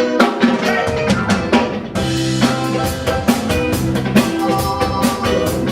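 Live band playing an instrumental intro: a drum kit with sharp snare and rimshot hits over bass and held chords. The full band comes in at about two seconds.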